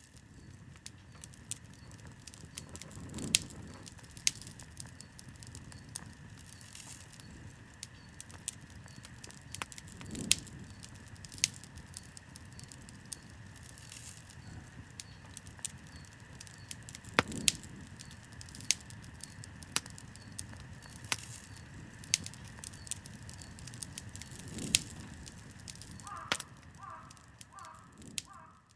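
Campfire burning, crackling steadily with frequent sharp pops and snaps over a low rushing of flame that swells now and then. Near the end, a short run of high repeated chirps sounds over it.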